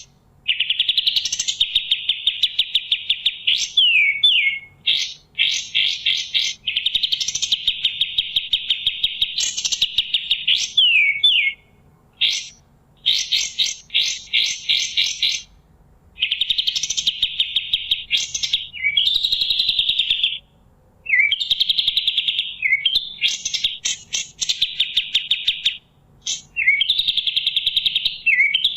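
Kapas tembak (triller) singing loudly in repeated phrases. Each phrase is a quick burst of sharp stuttering notes running into a long, fast, buzzy trill and ending in short slurred notes. Brief pauses fall between phrases.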